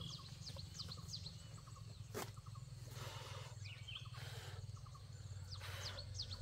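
Small birds chirping in short, quick downward notes over a steady low hum, with one sharp knock about two seconds in and a few brief bursts of rustling.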